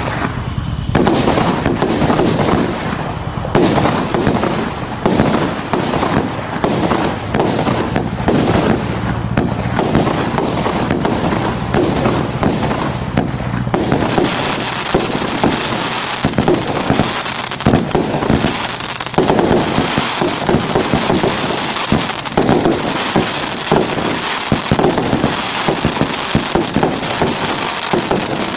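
Absolute Fireworks' 537 Starburst, a multi-shot consumer firework, firing shot after shot in quick succession: launch thumps and bursts with crackle between them. The barrage gets denser about halfway through.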